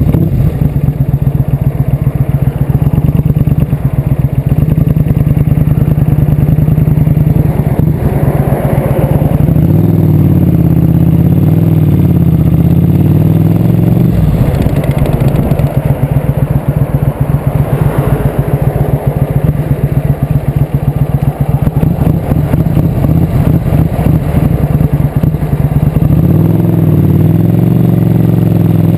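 Motorcycle engine running under way, loud and close, its pitch climbing and stepping as it accelerates through the gears a few times.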